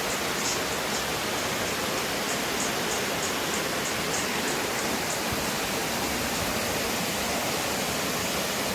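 Steady rush of a small creek waterfall: water pouring over rocks in an even, unbroken roar.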